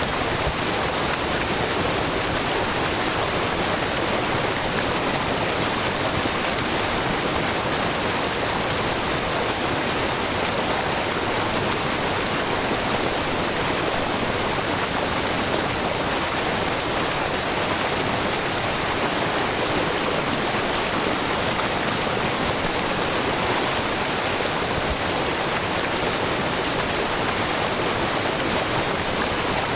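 Shiraito Falls, a wide, low waterfall fed by spring water seeping from a rock face, rushing and splashing as a steady, unbroken wash of water noise.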